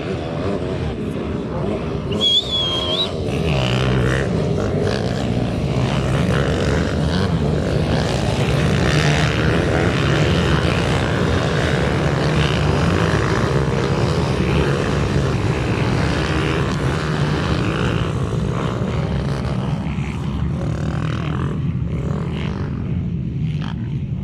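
Several minibike engines running hard together in a race, a loud continuous buzz of small high-revving motors that eases off a little near the end.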